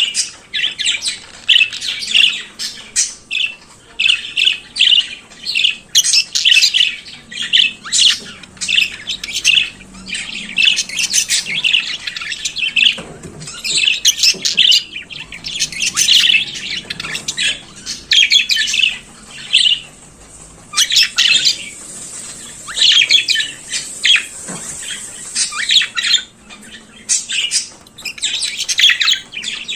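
Budgerigar warbling and chirping: quick runs of short high chirps and squawks, with brief pauses between phrases.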